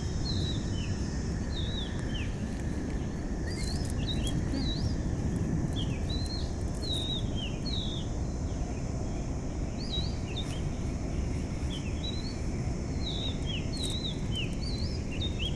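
A bird calling over and over in short, high chirps that rise and fall, a few to the second. Under the chirps is a steady low background rumble.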